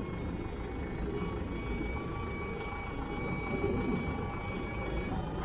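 A vehicle engine running steadily: a low rumble with a faint high whine over it.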